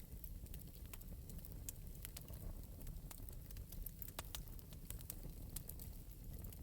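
Wood fire in an open metal fireplace crackling lightly: scattered sharp pops and snaps over a steady low rumble.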